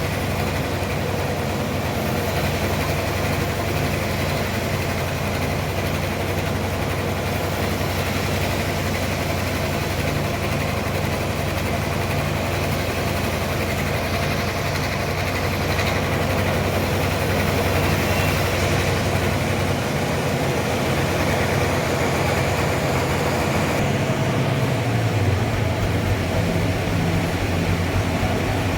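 Sawmill engine running steadily with a low drone; its pitch shifts near the end.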